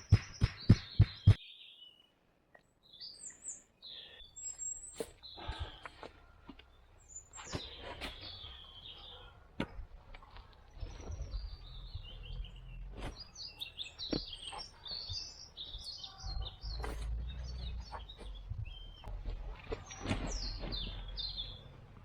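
Small forest birds chirping and singing, with many short high calls throughout. A quick run of loud sharp knocks, about five a second, stops about a second in, and a low rumble comes and goes in the second half.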